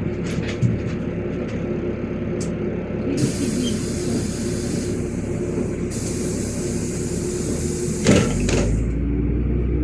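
LiAZ 5292.65 city bus idling at a stop, with two long hisses of compressed air from its pneumatic door system and a loud thud about eight seconds in as the doors shut. The engine note then deepens as the bus pulls away.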